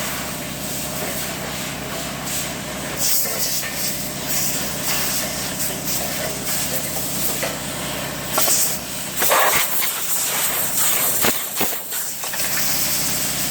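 Arc welding: the arc hissing and crackling continuously over a steady electrical hum, with a few louder sudden spits and bursts.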